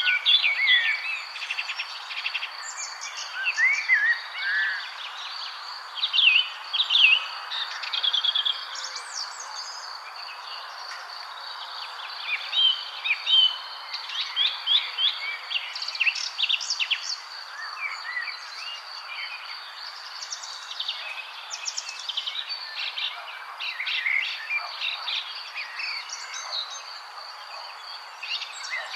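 Several songbirds singing and chirping at once: quick rising chirps, short trills and whistled notes, overlapping throughout. Under them run a steady high thin whine and a soft outdoor background hiss.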